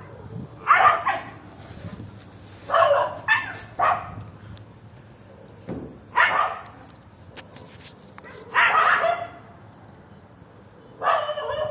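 A dog barking repeatedly: single barks and a quick run of three, a few seconds apart.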